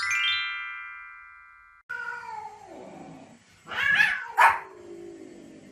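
A short chime jingle falling in pitch and ringing out, then a pet animal's long whining call falling in pitch, followed by two short loud yelps or barks about four seconds in.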